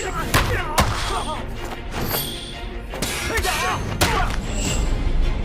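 Film fight sound effects: three sharp punch impacts with shouts and grunts over dramatic background music.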